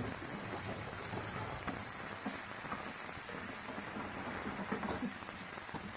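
Chicken pieces sizzling as they fry in hot oil in a pan, a steady hiss with a few light knocks, as of stirring.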